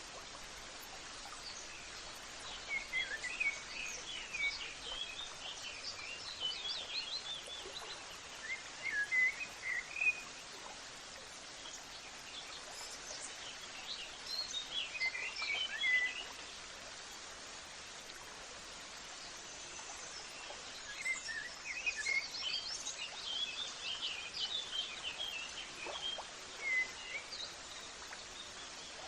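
Birds chirping in quick twittering bouts: about three seconds in, around nine seconds, near fifteen seconds, and a longer bout from about twenty to twenty-seven seconds. A steady outdoor hiss lies under them throughout.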